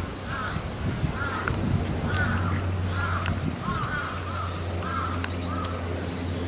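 A bird calling over and over, about nine short calls, with a steady low hum coming in about two seconds in.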